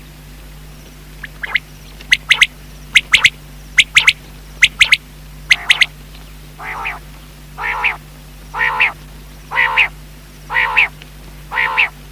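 Common quail calling: a run of sharp, high double notes, then six lower, nasal calls about one a second. This is the kind of quail call played to lure the birds on a hunt. A steady low hum runs underneath.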